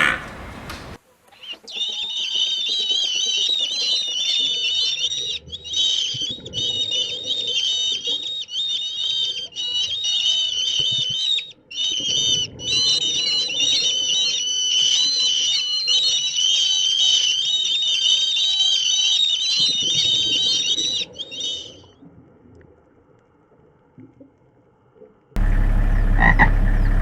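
A chorus of frogs calling in high, rapid trills, with short breaks, for about twenty seconds before stopping. Near the end a louder sound starts, with a steady low hum under it.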